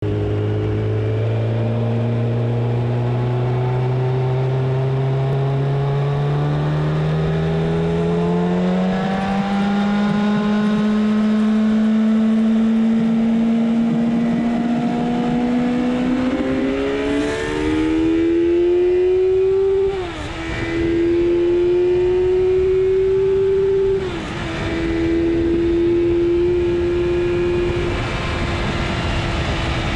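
Yamaha FZ1's inline-four engine pulling hard under acceleration, its pitch climbing steadily for over half the time, then dropping briefly at two upshifts in the last third before settling into a steady cruise, with wind noise on the microphone.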